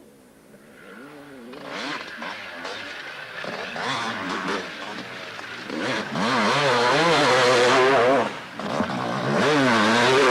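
Motocross bike engine revving up and down over and over as it rides, building from quiet to loud, with a brief dip in level about eight and a half seconds in.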